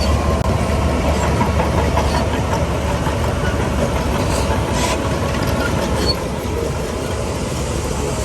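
Heavy diesel earthmoving machinery running steadily with a low rumble and a few sharp metallic clanks near the middle. It gets a little quieter about six seconds in.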